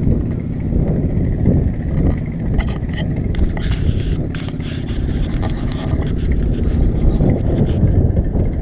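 Car engine running with a steady low rumble. Scattered clicks and rattles come through about halfway.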